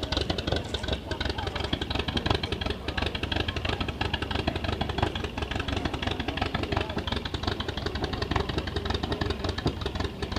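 Aircraft engine running steadily, with a rapid, even pulsing.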